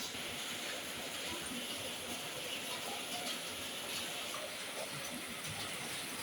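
Heavy rain falling steadily on a roof, a dense even hiss of drops with many small taps.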